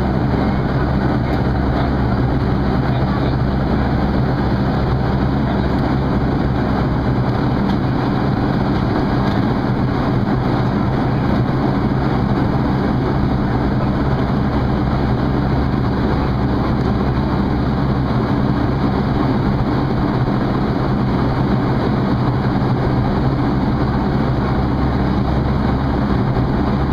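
Steady cabin drone of a Boeing 737-300 in flight: jet engine and airflow noise heard from inside the passenger cabin, even in level, with a constant low hum.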